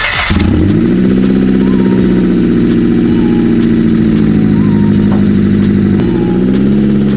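A Honda Civic EK's four-cylinder engine catches right after being cranked and settles into a steady, loud idle, running with no exhaust fitted.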